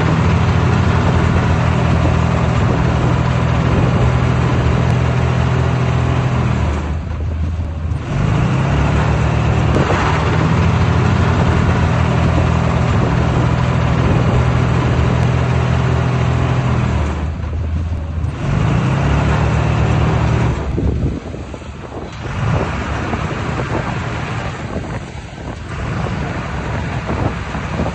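Heavy diesel earthmoving machine running hard, with a steady engine drone. Its pitch shifts a little a few times, and it drops back briefly about 7, 17 and 21 seconds in, settling lower and rougher for the rest.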